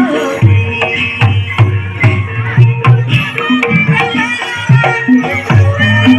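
Javanese gamelan music accompanying an ebeg kuda kepang dance. Hand-played kendang drums strike a busy, driving rhythm under ringing metal or bamboo pitched percussion and a wavering melody line.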